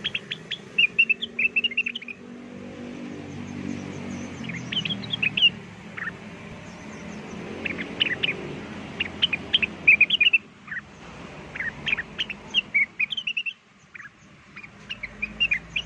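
Cucak wilis (leafbird) singing a fast, varied song of short chirps and whistles in repeated bursts. A low rumble runs underneath through roughly the first half.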